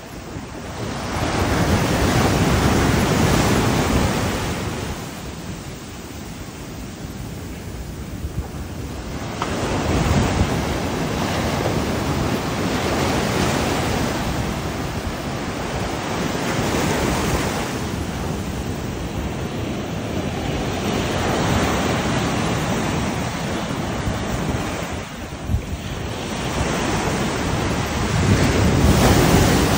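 Surf breaking on a beach, the wash of the waves swelling and fading every few seconds, with wind buffeting the microphone.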